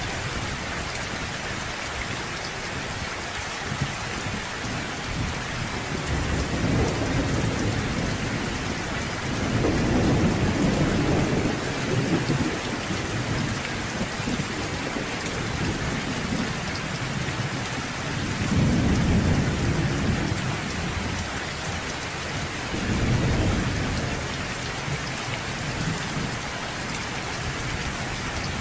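Steady heavy rain on surfaces, with distant thunder rolling in low rumbles that swell and fade several times; the loudest rumbles come about ten seconds in and again near twenty seconds.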